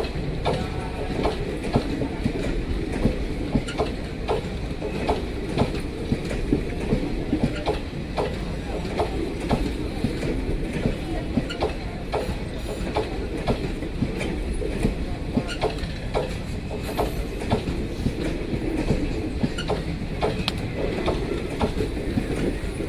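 Passenger express train rolling past, its wheels clacking rhythmically over the rail joints, a couple of clacks a second over a steady low rumble.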